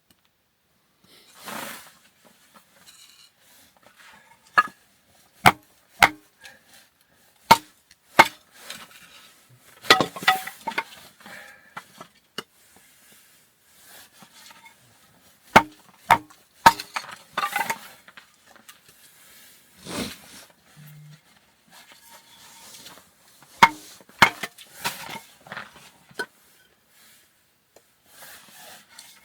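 Firewood being split into small kindling pieces with a blade: a long series of sharp wooden knocks and chops at an irregular pace, some coming in quick pairs, some with a brief ringing.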